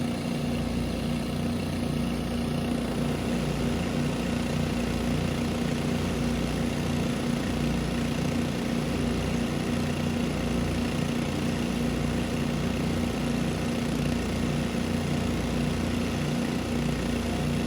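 Small gasoline engine of a highbanker's water pump running steadily at constant speed.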